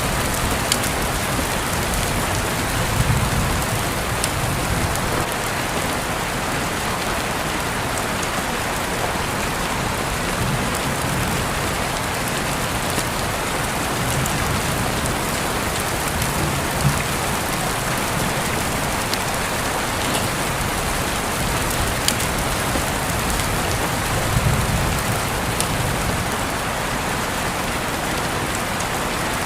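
Steady rain falling, an even hiss with scattered sharper drop ticks and a few soft low swells.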